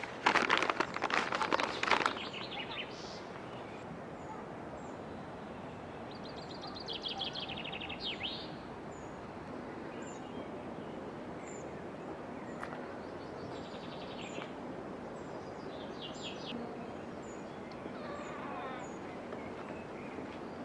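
Small birds singing in short trilled phrases over a steady outdoor hiss, after a loud rustling in the first two seconds.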